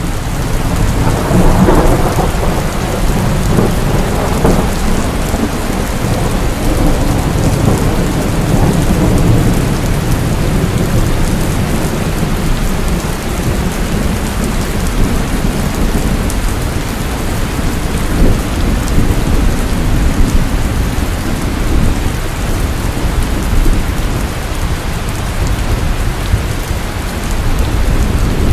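Heavy rainstorm: steady, dense rain with rolling thunder. A deep rumble swells about a second in and rolls on for several seconds, and another builds near the end.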